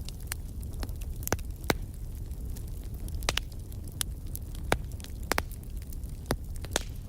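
Wood fire burning, with a steady low rumble and irregular sharp crackles and pops from the firewood, about a dozen of them.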